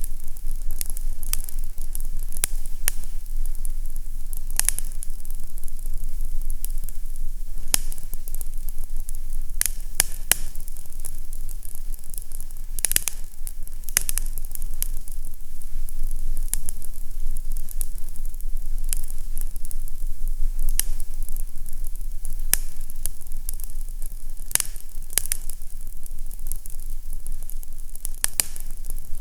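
Fire crackling in a fireplace: irregular sharp pops and crackles, a few a second, over a steady low rumble.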